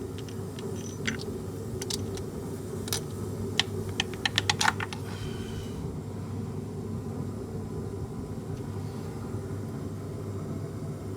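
A series of sharp clicks and taps, scattered at first and then a quick run of about eight about four seconds in, over a steady low hum.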